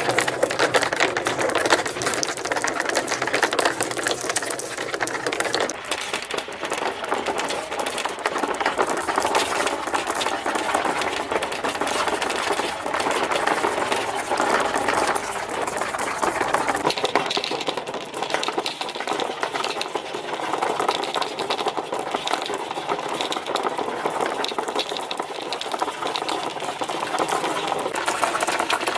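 Many marbles rolling and clattering down plastic marble-run ramps: a dense, continuous rattle of rapid clicks.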